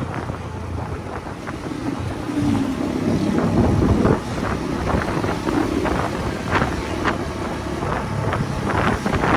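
Motorcycle engine running while riding, with heavy wind buffeting on the microphone. The engine pitch climbs from about two seconds in and drops off suddenly at about four seconds, then runs on steadily.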